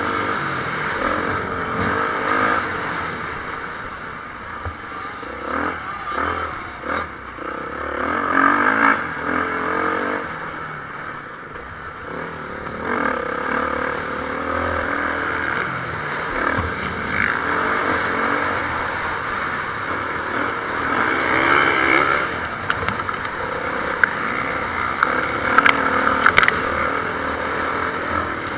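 Motocross bikes racing on a dirt track, engines revving up and down as the riders work the throttle through the course. A few sharp clicks near the end.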